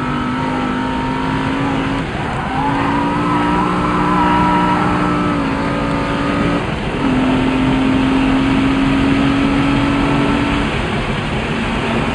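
BMW M3 engine heard from inside the cabin, running hard at a steady pitch that breaks off and picks up again twice, about two seconds in and about seven seconds in. A wavering squeal, typical of tyres sliding sideways, rides over it for a couple of seconds after the first break.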